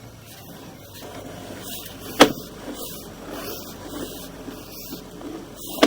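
Handling noise from feeding a sewer inspection camera's push cable up the line: an irregular rubbing and rattling, with a sharp click about two seconds in and another near the end.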